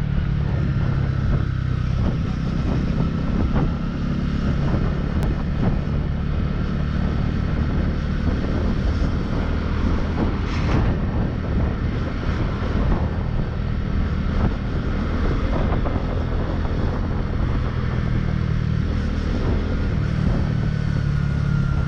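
Motorcycle engine running steadily while the bike is ridden along, a constant low drone with road noise and no marked revving.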